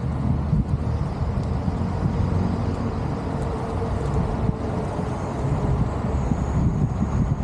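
Steady rumble of wind buffeting the microphone on a gravel bike being ridden, mixed with the tyres' road noise. A faint high whistle sounds through the second half.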